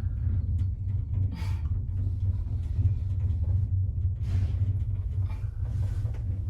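Steady low rumble inside a moving aerial tramway gondola cabin riding up the cable.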